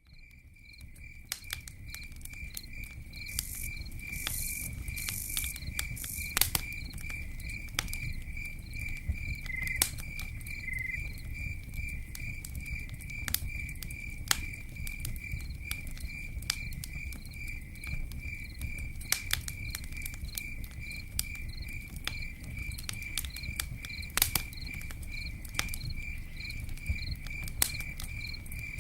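Campfire crackling, with scattered sharp pops over a low steady rumble of burning wood. A cricket chirps in an even rhythm of a few chirps a second throughout. The sound fades in at the start.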